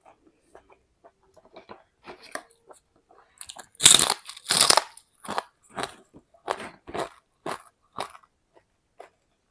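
Crisp food being bitten and chewed close to the microphone: small faint clicks at first, then two loud crunching bites about four seconds in, followed by a run of shorter chewing crunches, about two a second, that die away near the end.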